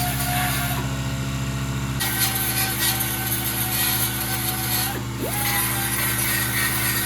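A handheld power sander or grinder is stripping paint and residue down to bare metal on a steel firewall cowl panel. The abrasive hiss gets stronger about two seconds in and dips briefly with a short change in pitch about five seconds in, as the tool is eased off the metal and pressed back on.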